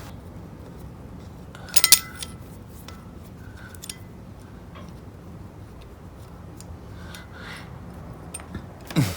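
Metal clinking and clicking of hand tools and small parts while the handle is taken off an Emerson Electric 77648 fan: a sharp cluster of clinks just before two seconds in, light scattered ticks after, and a knock near the end.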